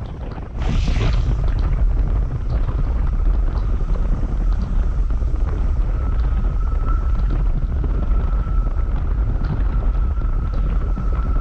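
Riding on a Honda CB150X motorcycle: heavy wind buffeting on the action camera's microphone over the bike's running, growing louder after a short rush of noise about half a second in. A thin steady whine joins about six seconds in.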